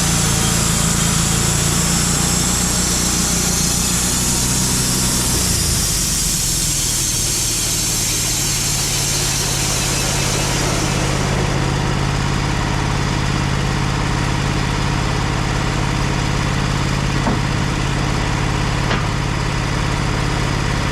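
Wood-Mizer portable band sawmill running steadily under engine power. Its engine note shifts about five seconds in, and a high hiss, likely the blade cutting, fades out about halfway through.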